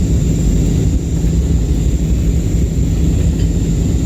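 Airliner cabin noise: a steady, loud low rumble of engines and airflow, with a thin high steady whine above it.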